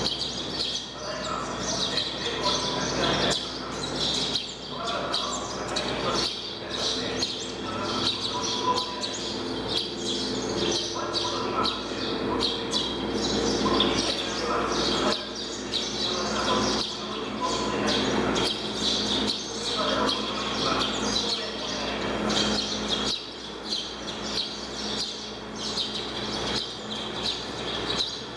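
Small birds chirping busily and continuously, over a steady low drone and scattered voices.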